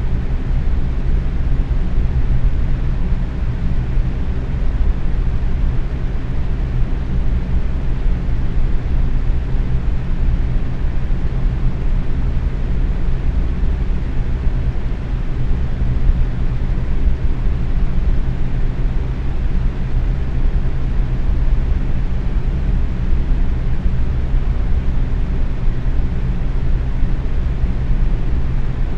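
Box fan running steadily at medium speed: an even rushing whoosh of air with a low motor hum.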